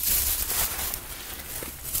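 Newborn piglets shuffling and moving about, a light irregular rustling and pattering of small hooves.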